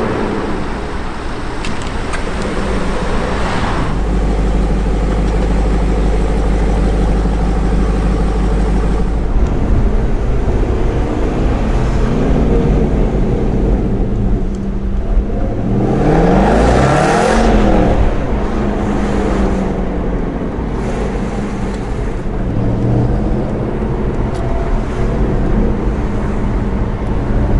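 Aston Martin Vantage GT8's V8 engine with its titanium race exhaust, pulling away and driving. About halfway through it revs hard, rising sharply in pitch and then falling back. Most of it is heard from inside the cabin.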